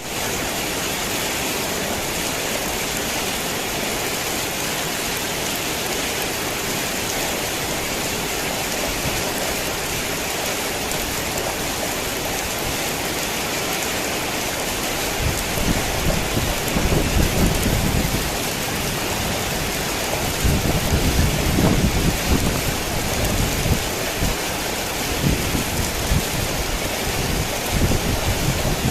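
Heavy rain falling steadily, with low rolling rumbles of thunder swelling up about halfway through, again a few seconds later, and briefly near the end.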